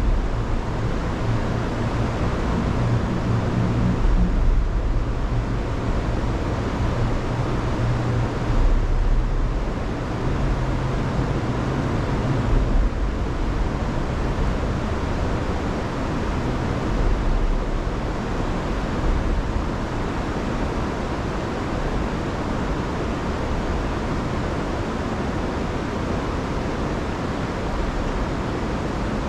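Rain-swollen river rushing over waterfalls: a loud, steady wash of moving water with a deep rumble underneath. The rumble is heavier in the first half and eases a little later on.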